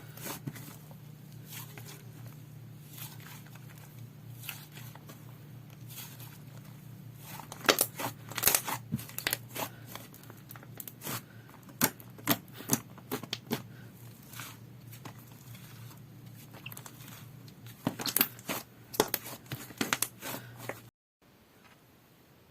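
Slime being pressed, stretched and poked by hand, giving irregular sticky pops and crackles, with clusters of louder pops. A low steady hum runs underneath and cuts off sharply near the end.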